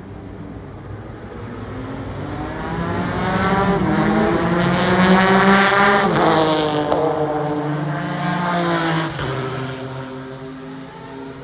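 Four-rotor Mazda rotary prototype race car at high revs, growing louder and passing by about six seconds in, its engine note dropping in pitch as it goes past. About nine seconds in the revs drop sharply, like an upshift, then climb again.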